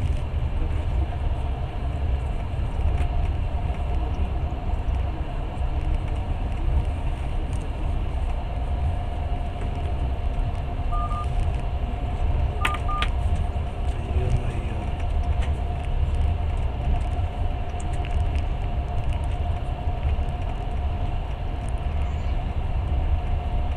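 Passenger train carriage running with a steady low rumble and a faint constant whine. About halfway through, a few short electronic beeps from a mobile phone cut in: one single beep, then two close together.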